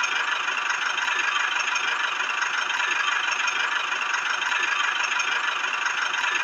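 Small electric motor of a DIY model water pump running steadily, with a high whine and hiss.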